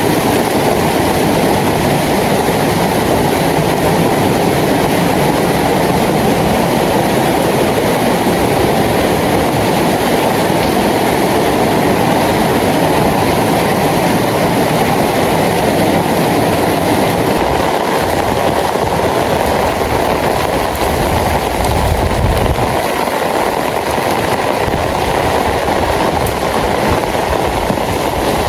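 Steady, loud rain falling, a constant wash of noise, with a brief low rumble about three quarters of the way through.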